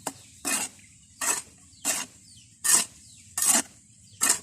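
Gritty scraping strokes of sand and cement being stirred together in a container, about seven strokes at a steady hand-mixing pace.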